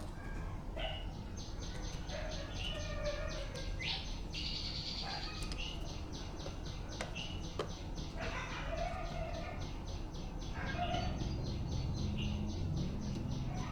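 Birds chirping over a steady low hum, with a rapid, evenly pulsing high buzz that starts about a second in.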